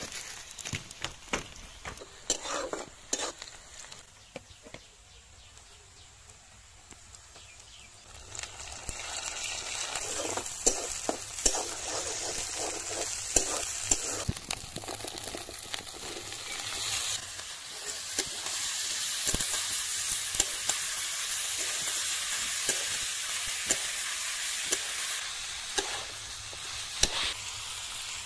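Onions, spice masala and jackfruit frying in hot oil in a kadhai, with a metal spatula stirring and scraping against the pan in scattered clicks. The sizzle is faint at first, swells about a third of the way in, and grows louder again around the middle.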